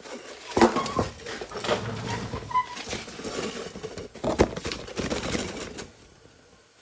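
Irregular clinks and knocks of hand tools and metal parts being handled during front-suspension work. Two sharper knocks come about half a second in and about four and a half seconds in, and a few short metallic rings are heard. It goes quiet near the end.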